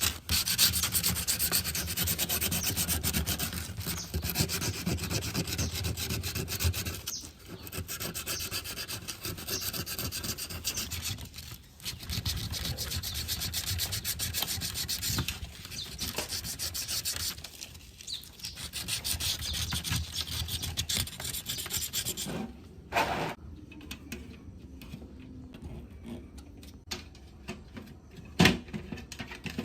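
Continuous abrasive rubbing by hand, like sanding, with short pauses between stretches, that stops about 22 seconds in. Then a quieter stretch with a couple of sharp knocks.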